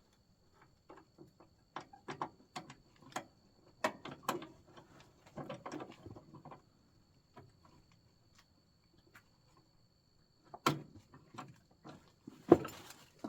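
Scattered clicks and clunks of hands working on a riding mower's deck and belt linkage, with two louder knocks near the end.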